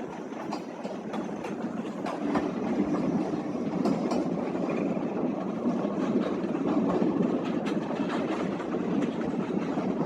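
A train running on the rails, a steady rumble that grows louder about two seconds in, with scattered clicks of the wheels.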